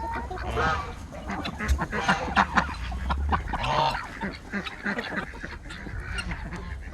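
Domestic geese honking repeatedly, with ducks quacking among them in a mixed flock of poultry.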